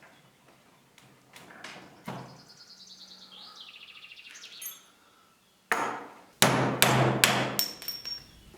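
Hammer striking: a few light knocks, then a quick run of about six loud blows in the second half, each with a bright metallic ring.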